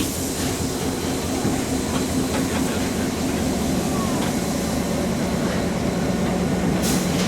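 Passenger train hauled by the steam locomotive Empress 2816 rolling slowly into the station: a steady rumble with a low hum and faint ticks, and one brief burst of noise near the end.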